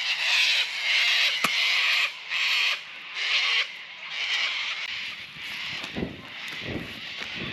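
Animal calls from the bush: hissy, rasping bursts of half a second to a second, repeating over and over. A single sharp click comes about one and a half seconds in.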